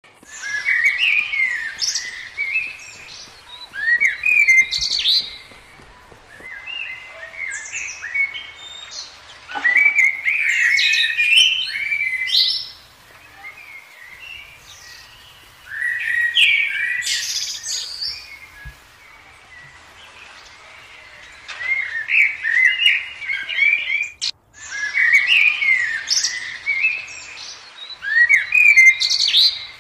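Birdsong: bursts of quick, high chirping phrases a second or two long, repeating every few seconds with short quieter pauses between.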